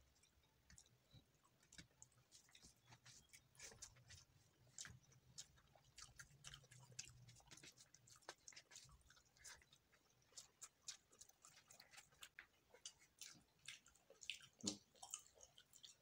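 Faint chewing of fried chicken and rice eaten by hand: many small, irregular mouth clicks, one sharper near the end.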